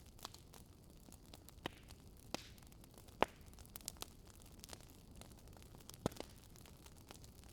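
Wood fire crackling softly over a low hiss, with scattered sharp pops from the burning logs, the loudest about three seconds in.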